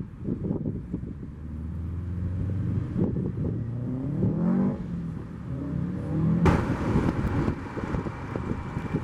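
Car engine running and picking up speed, its pitch rising around the middle, over low buffeting noise. A sudden noisy burst comes about two-thirds of the way in.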